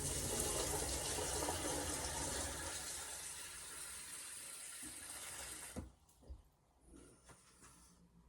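Water running from a tap, easing slightly and then cut off abruptly about six seconds in, followed by a few faint knocks.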